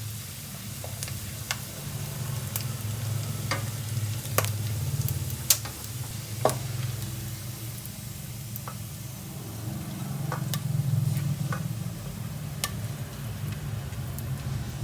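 Garlic egg fried rice sizzling in a pan as it is stirred, a utensil clicking sharply against the pan a dozen or so times over a steady low hum.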